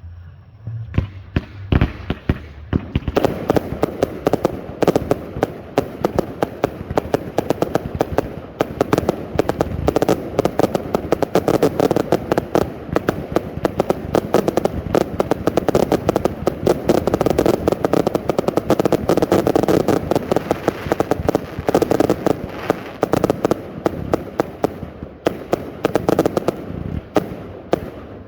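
Consumer firework compound cake firing a rapid, continuous barrage of shots, starting about a second in.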